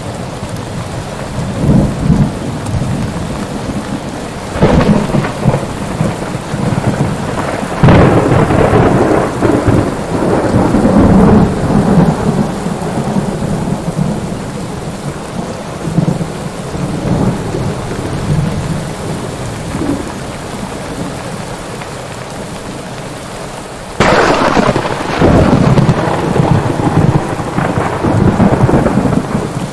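Thunderstorm: steady rain with repeated rolls of thunder swelling and fading, and a sudden sharp thunderclap late on.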